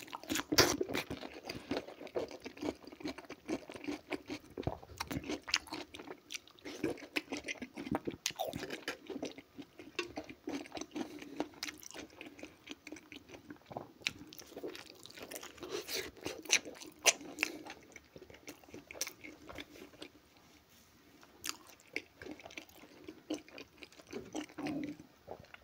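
A man biting into and chewing a salted pickled cucumber, a run of irregular crunchy bites and chews that pauses briefly about two-thirds of the way through.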